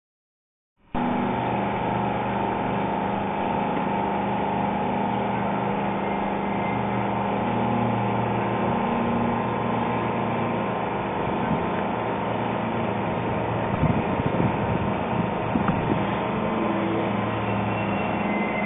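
VL82M electric locomotive giving a steady, even hum made of several held tones. A few light knocks come in the second half.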